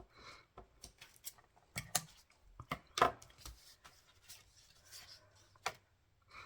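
Paper-crafting handling sounds: scattered light clicks, taps and paper rustles as card stock and strips are handled, with the sharpest tap about three seconds in.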